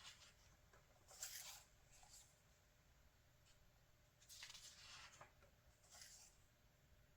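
Faint rustles and swishes of glossy magazine pages being handled and turned, in three short bursts with quiet between.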